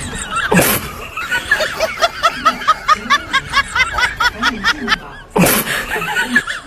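Rapid high-pitched laughter, a quick string of short rising-and-falling notes several a second. A short rushing noise comes about half a second in, and a longer one near the end.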